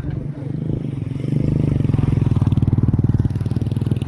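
Motocross dirt bike engine running close by at a steady speed, growing louder about a second in with a fast, even pulsing note.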